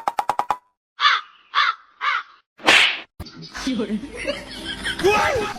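A quick rattle of clicks, then three short harsh caw-like animal calls about half a second apart, then a sharp slap. After that comes a jumble of chattering, pitched calls and voices.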